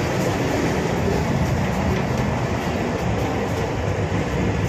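Steady low rumble of a moving Vande Bharat Express electric train set, wheels running on the rails, heard from inside the coach.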